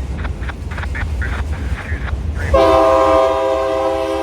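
Diesel freight locomotive's multi-chime air horn sounding one long chord of several notes, starting about halfway in, over the low rumble of the train. Before the horn there is a regular clanging.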